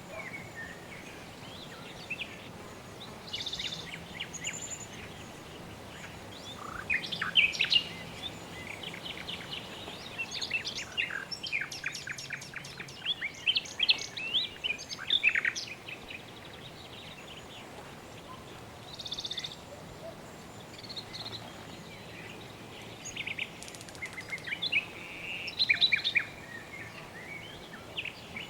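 Birds chirping and calling in several bursts of quick high notes, over a steady background hiss.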